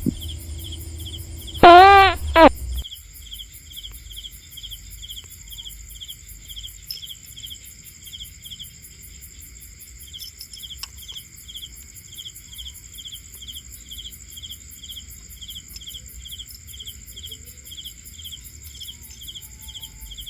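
Cricket chirping steadily, about two chirps a second. About two seconds in, a loud pitched call lasting under a second rises over it.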